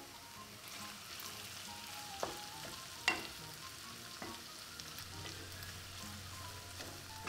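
Chopped crispy pork sisig and freshly added onions sizzling in a pan while being stirred with a wooden spatula, which knocks and scrapes against the pan a few times.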